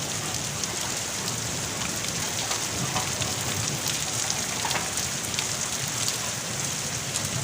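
Steady rain falling, with many separate drops tapping on a surface.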